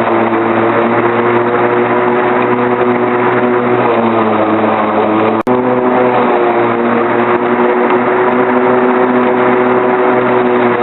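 Lawnmower engine running steadily at constant speed, with a momentary break in the sound about halfway through.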